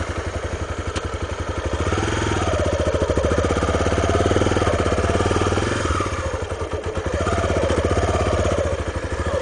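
Honda Tornado trail motorcycle's single-cylinder engine running just after being started, pulsing steadily at low revs, with the revs rising and falling gently a couple of times.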